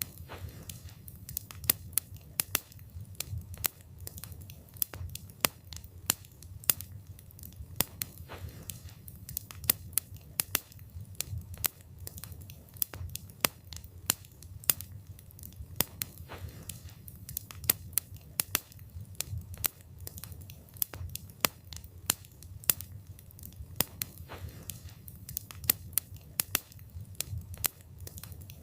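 Wood fire burning, its logs crackling and popping in irregular sharp snaps, several a second, over a low steady rumble.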